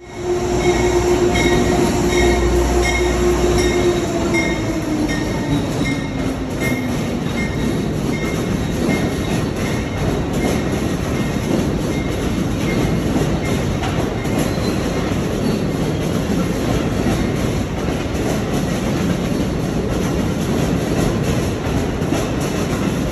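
Passenger train moving through the station. A motor whine holds steady, then falls in pitch about four to six seconds in, while a ping repeats somewhat under twice a second for the first ten seconds or so. A steady rumble of wheels on rail runs underneath.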